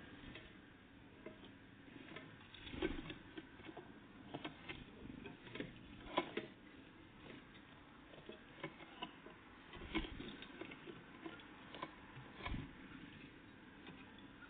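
Irregular light taps and clicks of small birds, great tits and blue tits, pecking and landing at a feeder.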